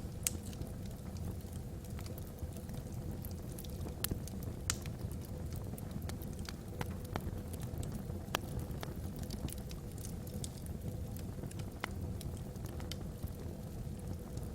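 Wood fire burning in a fireplace, the logs crackling with sharp, irregular pops over a steady low rumble.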